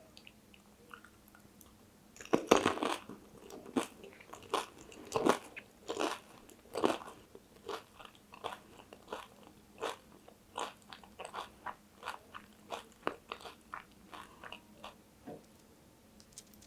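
Close-up mouth sounds of eating crisp pani puri: a loud crunching bite about two seconds in, several more crunches over the next few seconds, then lighter, regular chewing about twice a second.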